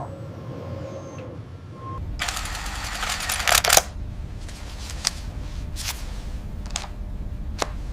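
Machinery starting up as the safe is rotated for scanning: a low steady hum comes in about two seconds in, with a loud hiss lasting about a second and a half, then sharp mechanical clicks about once a second over the hum.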